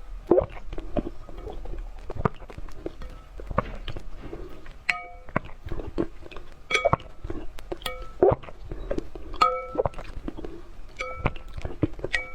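An animal eating an egg: irregular crunching of eggshell and wet chewing and lapping, in quick sharp cracks. Short plucked-string music notes join in about five seconds in.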